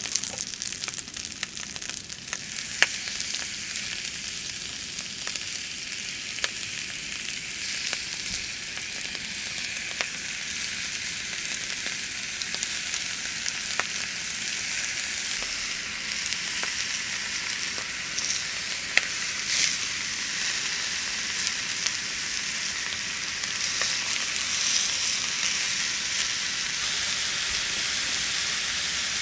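Food frying in a hot pan: a steady sizzling hiss with scattered small pops and crackles.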